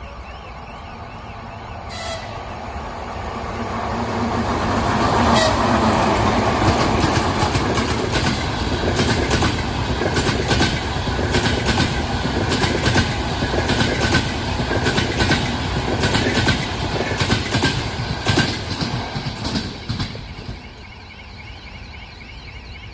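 Passenger train passing close by: the rumble builds over the first few seconds, then a long run of wheel clicks over the rail joints, fading near the end.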